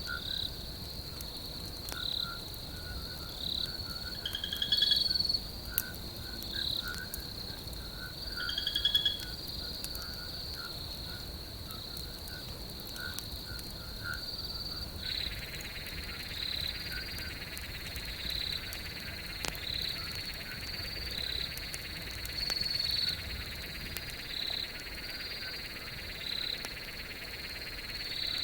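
Night chorus of frogs and insects: a steady high insect trill with chirps pulsing along it, and a frog calling in quick repeated notes, with two louder calls about 5 and 9 seconds in. About halfway through, a second, buzzier insect trill joins and carries on.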